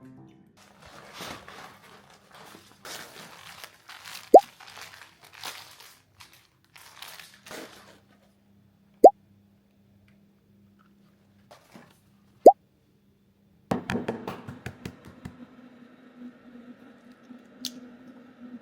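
Handling noises of rustling and light clatter, broken by three short, loud plops that rise in pitch, spaced a few seconds apart. A steady hum starts about two-thirds of the way in.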